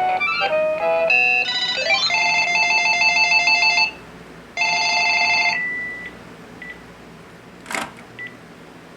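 Cordless phone handset ringing electronically: a short melody of changing notes, then two bursts of a warbling trill ring with a brief gap between them, followed by a few short beeps and a click near the end.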